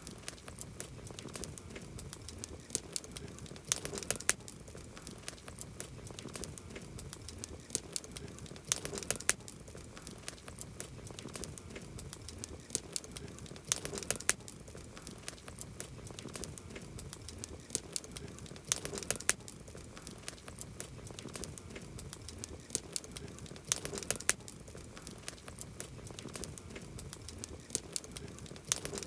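Wood campfire crackling: dense small snaps and pops over a soft hiss, with a cluster of louder pops about every five seconds.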